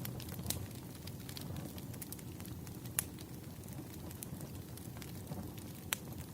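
Campfire burning: a steady low rush of flames with scattered sharp pops and crackles of burning wood, the loudest pops about half a second in, three seconds in and near the end.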